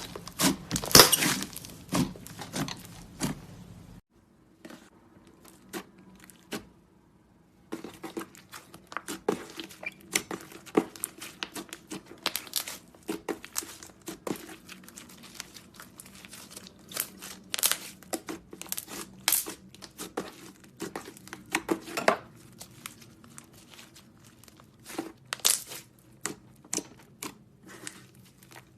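Hands squishing and stretching clay slime, making a dense, irregular run of small sticky clicks and pops. The sound cuts off suddenly about four seconds in and is nearly quiet until about seven and a half seconds, then the clicking resumes.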